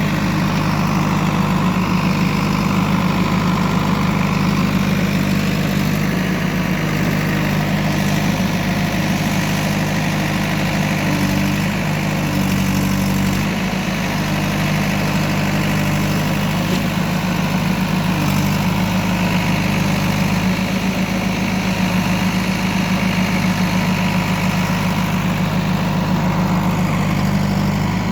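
Heavy diesel engine running steadily, dipping slightly in level about halfway through.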